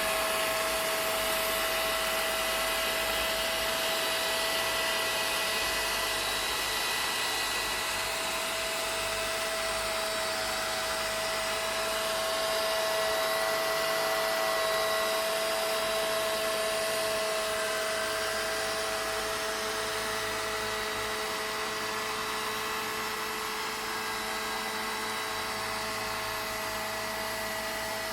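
Vacuum cleaner running steadily: a constant rush of air with a steady motor whine that holds one pitch.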